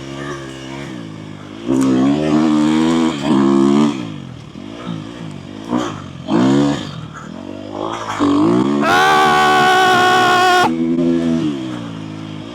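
Dirt bike engine revving up and down as the throttle is worked through loose sand, its pitch rising and falling every second or two. About nine seconds in, a loud, steady, high-pitched sound is held for nearly two seconds.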